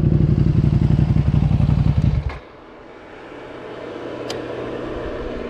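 Ducati Panigale V2's V-twin engine, through a full Akrapovic exhaust, running steadily at constant revs, then cutting off abruptly about two seconds in. Quieter sound follows, with a single click.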